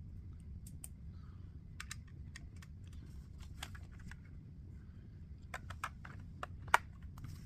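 Small plastic Lego pieces clicking and rattling as they are handled and pressed together: scattered sharp clicks, busier and louder near the end.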